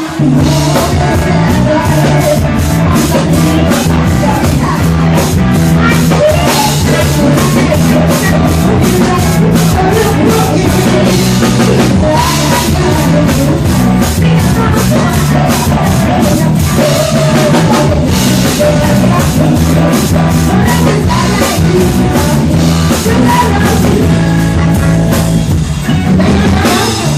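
A live band playing loud rock-style music, with a drum kit beating steadily, bass and singing.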